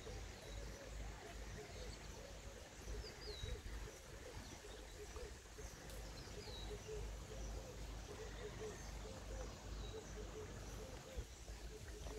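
Faint outdoor bird calls: short downward-sliding chirps every few seconds over a steady low rumble.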